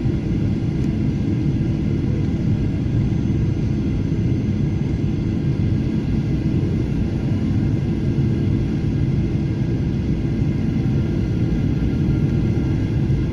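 Jet airliner cabin noise heard from a passenger seat: a steady, unbroken rumble of engines and airflow with a few faint steady tones above it, during the approach to landing.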